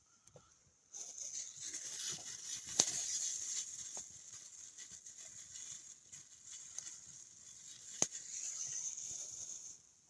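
A steady high hiss that starts suddenly about a second in and cuts off just before the end, with two sharp clicks during it.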